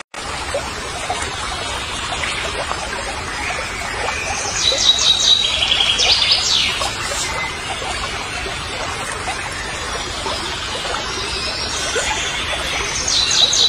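Birds singing outdoors: high chirping and trilling phrases about five seconds in and again near the end, over a steady background hiss.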